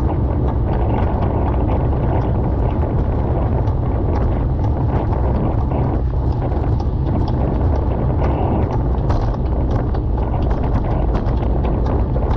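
Bicycle being ridden, with a heavy wind rumble on the microphone and many short sharp clicks throughout: the weird rotational clicking that the rider hopes is not a worn bottom bracket.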